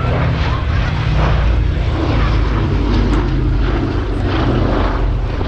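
Propeller-driven aircraft in flight with its engine running, a steady low sound that doesn't break.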